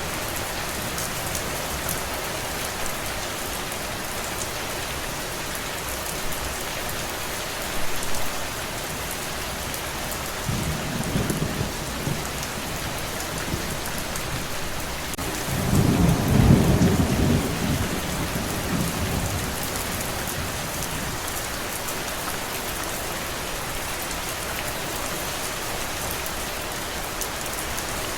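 Steady rain falling, with low rumbles of thunder: a short one about ten seconds in and a longer, louder one a little past halfway.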